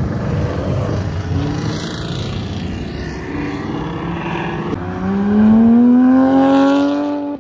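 Car engines rumbling as cars pull away, then from about five seconds in a Porsche 911 GT3's flat-six accelerating hard, its note rising steadily in pitch. This is the loudest part. The sound cuts off abruptly at the end.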